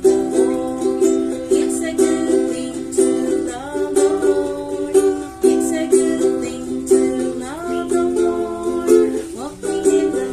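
Ukulele strummed in a steady rhythm of chords, with a melody line above it that slides upward in pitch about three times.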